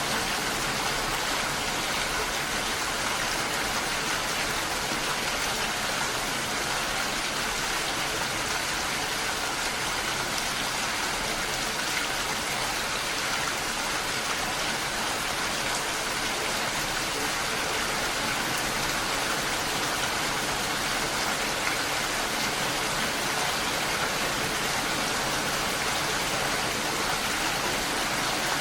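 Gentle rain falling together with a waterfall: a steady, even hiss of falling water that does not change.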